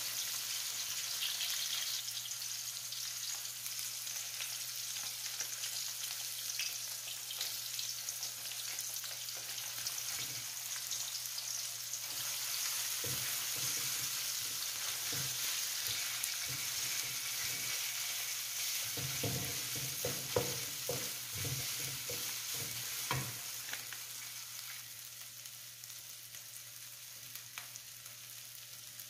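Sliced onions and red curry paste sizzling in oil in a wok while being stirred with a wooden spatula, with scrapes and knocks of the spatula against the pan bunched in the middle. The sizzle grows quieter near the end.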